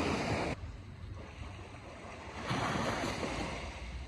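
Sea waves breaking and washing on the beach, with one surge fading about half a second in and another rising about two and a half seconds in, and wind rumbling on the microphone.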